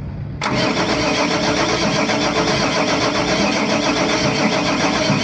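Deutz common-rail diesel engine starting up about half a second in and then running steadily and loudly, on a test of its newly fitted Bosch high-pressure fuel pump.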